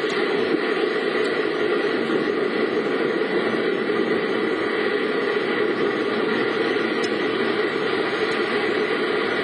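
Steady noise of a vehicle driving, engine and road noise blended into an even rumble with no distinct events.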